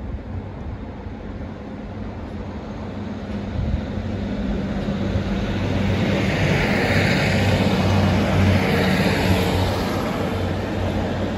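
Diesel multiple unit passing close by along the platform: a steady engine drone and wheel-on-rail rush that swell to their loudest about two-thirds of the way through, then ease as the train moves away.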